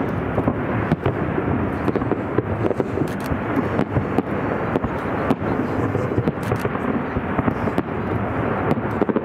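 Fireworks display: a continuous barrage of bangs and crackling reports, many to the second, without a break.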